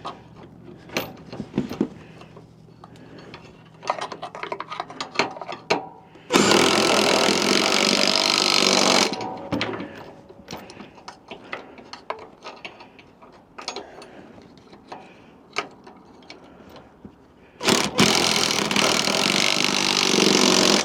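A power tool runs in two steady bursts of about three seconds each, the first about six seconds in and the second near the end, with light clicks and knocks of tools being handled in between.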